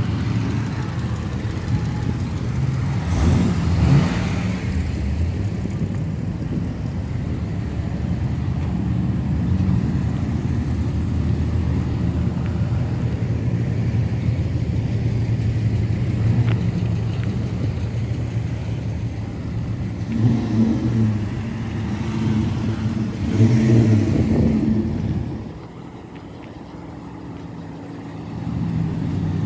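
Muscle car engine burbling, revved up about four seconds in and again around twenty to twenty-four seconds in, then dropping back briefly before the sound picks up again near the end.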